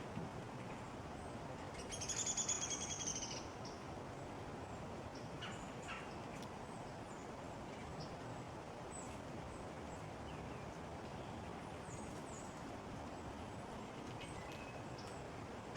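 A small backyard bird gives one rapid, pulsed, high call lasting about a second and a half, about two seconds in. Scattered faint, short high chips from other small birds follow, over a steady outdoor background hiss.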